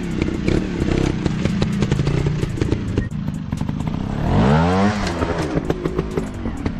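Dirt bike engine running off-road, with a quick rev up and back down about four seconds in. Sharp clicks and clatter run through it.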